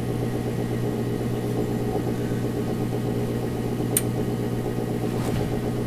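Gas furnace running through its start-up with a steady motor hum, before the electric pilot lights. A single short click about four seconds in.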